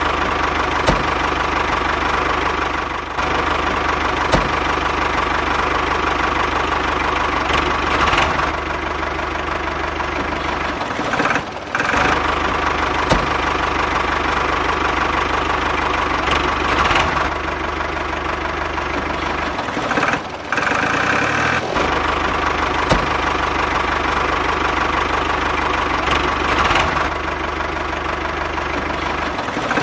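Engine running steadily at idle, with a rough, knocking beat. It breaks off abruptly and changes character several times, most plainly about 11 and 20 seconds in.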